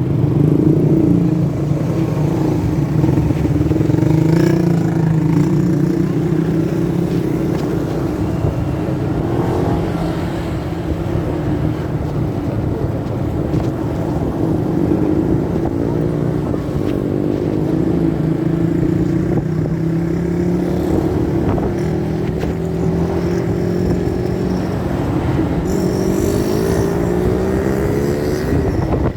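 Motorcycle engine running under way, its pitch drifting up and down with the throttle and climbing in several rises near the end. It is heard through a phone carried in the rider's pocket.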